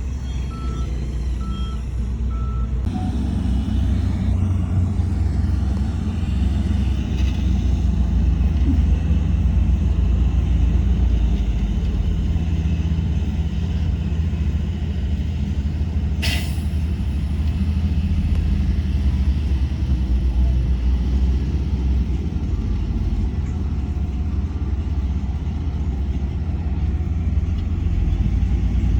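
Heavy diesel earthmoving machinery running steadily under load. A reversing alarm beeps about twice a second for the first couple of seconds, and a short hiss sounds about halfway through.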